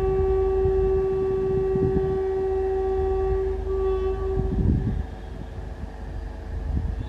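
Indian Railways WAG-7 electric locomotive horn, one long steady blast followed after a brief break by a short second blast that stops about four and a half seconds in, over a low rumble.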